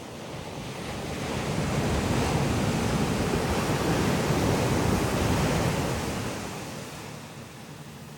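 Ocean waves breaking on a beach: the surf swells about a second in, holds loud for a few seconds, then washes out and fades.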